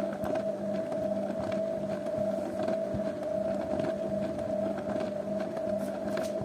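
Zanussi washing machine running, a steady motor hum with a constant whine held at one pitch.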